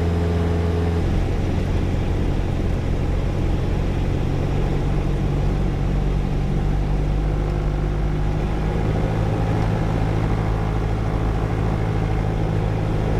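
Light aircraft's piston engine and propeller running steadily at climb power just after a touch-and-go, heard from the cockpit. Its tone shifts about a second in and again around eight to nine seconds in.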